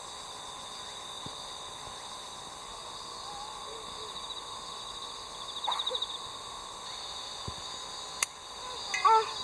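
Steady, high-pitched insect chorus with a few faint calls, a sharp click, and a voice near the end.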